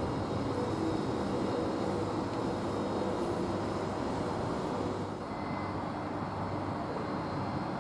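X'Trapolis electric suburban train running at the station: a steady rumble with faint steady whining tones that eases slightly about five seconds in.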